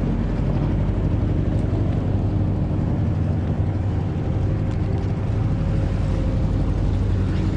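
Small fishing boat's motor running steadily under way, a constant low hum with wind and water rush over it.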